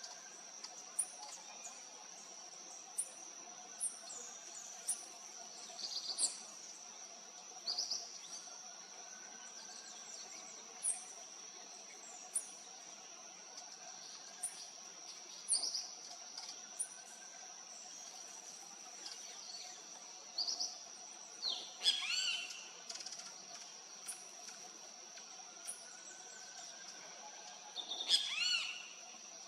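A small songbird calling with short, high chirps every second or so, breaking into two longer, louder song phrases of quick sweeping notes, one about two-thirds of the way in and one near the end. A steady high-pitched whine and a faint low hum run underneath.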